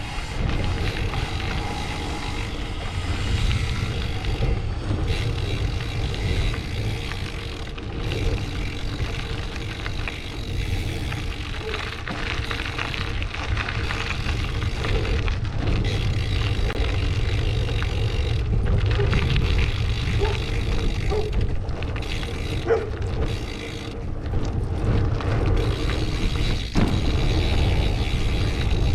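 Wind rushing over an action camera's microphone during a bicycle ride: a steady low rumble that swells and eases.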